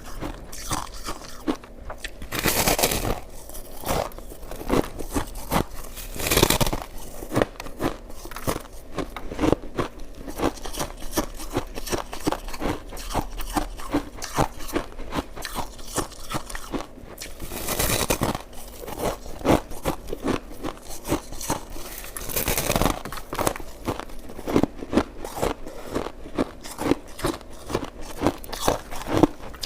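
Close-up crunching and chewing of shaved ice: a rapid run of small crackling crunches, broken about four times by a longer, louder crunch.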